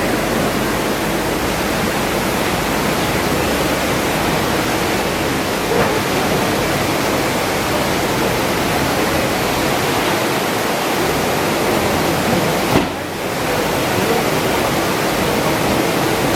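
Steady loud rush of running water in a banana packing house's washing tanks. About thirteen seconds in there is a short knock, and the rush dips for a moment.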